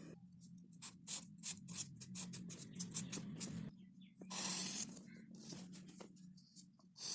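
Faint pen strokes and taps drawing a figure, short scratches with a few longer strokes, over a faint steady low hum.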